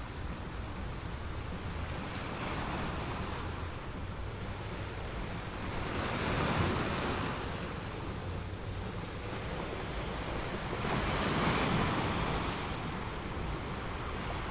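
Steady sea-wave and wind noise, with no engine tone to be heard. It swells twice, like waves washing in, about six seconds in and again near the end.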